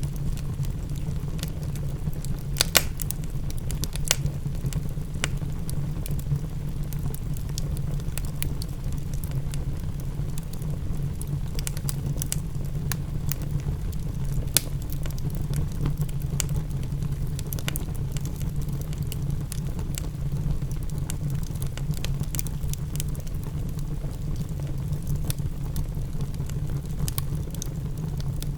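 Wood fire crackling with irregular sharp pops, two louder ones a few seconds in and midway, over a steady low rumble, with rain pattering faintly underneath.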